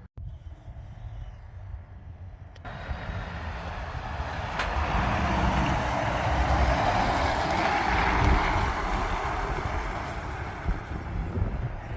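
A heavy truck drives past. Its engine rumble and tyre noise build from about three seconds in to a peak near eight seconds, then ease off.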